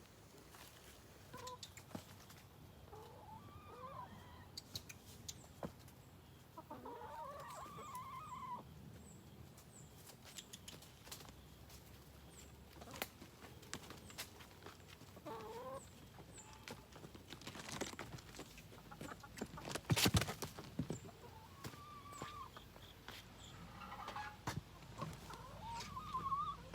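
Backyard chickens clucking on and off. Scattered sharp clicks run through it, with a louder knock about twenty seconds in.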